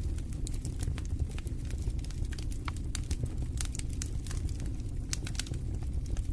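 Wood fire in a fireplace, crackling and popping with irregular sharp snaps over a steady low rumble of the flames.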